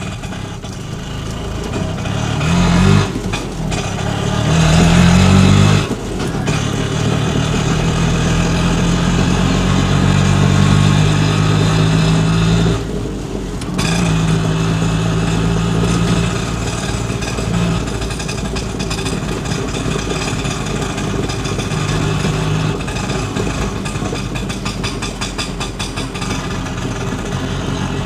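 A vehicle engine running, revved up twice in the first few seconds, then running steadily, with a short drop about 13 seconds in.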